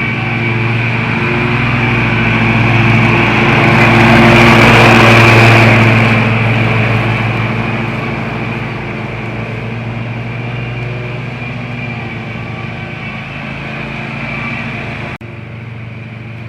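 Lawn mower engine running steadily, growing louder to a peak about five seconds in as it comes close, then slowly fading; the level drops suddenly near the end.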